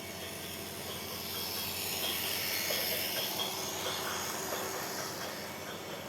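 Train running past: a rushing hiss with faint clicks that swells about a second and a half in and eases off towards the end.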